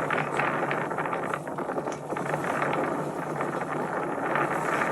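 Wind and water noise aboard a small sailboat under sail: steady wind rushing over the microphone, with irregular splashes of water.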